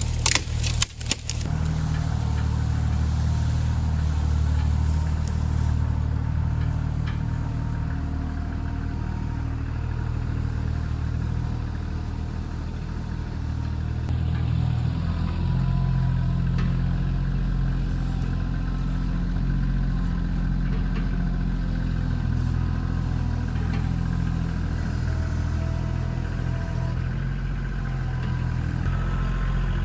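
Kioti CK2610 tractor's three-cylinder diesel engine running steadily, its pitch shifting about halfway through as the load or throttle changes. A brief clatter of knocks sounds about a second in.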